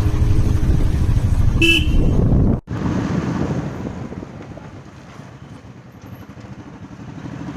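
Motorcycle riding in traffic, its engine and road noise loud and steady, with one short horn toot about a second and a half in. Near the middle the sound cuts off abruptly and comes back much quieter, the engine and road noise continuing.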